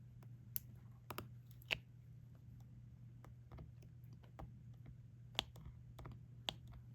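Irregular small clicks and taps of a diamond painting drill pen picking up resin drills and pressing them onto the canvas, over a faint steady low hum.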